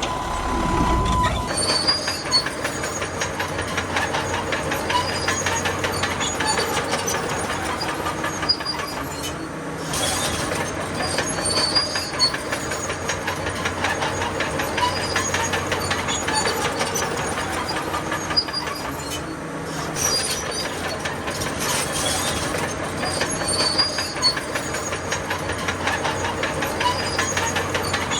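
Crawler bulldozer working, its steel tracks clattering and squealing over the steady run of its diesel engine, with brief lulls about every ten seconds.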